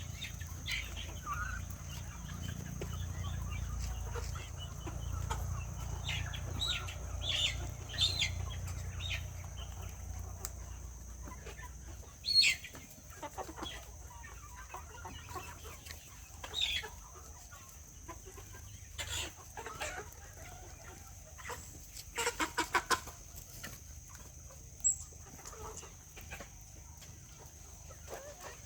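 Chickens clucking and calling at intervals, with a sharp call about twelve seconds in and a quick run of clucks a little past twenty seconds. A low rumble sits under the first half and a steady high-pitched tone runs underneath.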